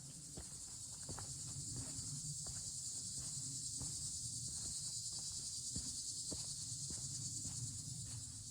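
Steady high-pitched chirring of crickets, with scattered light clicks and a low rumble underneath.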